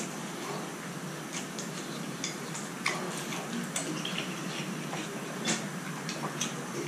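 Close-up chewing of fire noodles in bread: irregular wet clicks and smacks from the mouth, over a steady low hum.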